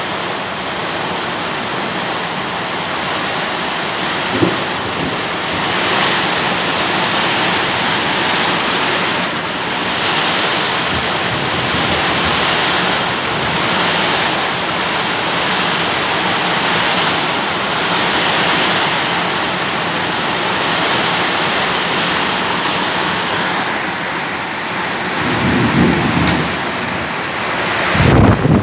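Heavy rain and strong gusting wind: a loud, steady hiss that swells and eases with the gusts, with a few low rumbles, the loudest near the end.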